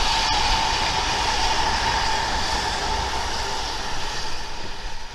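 A train running: a steady rushing noise with a faint steady whine, fading out near the end.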